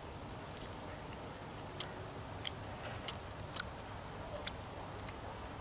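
A person chewing a mouthful of grilled homemade pork sausage, with about seven short, soft mouth clicks spread through the chewing.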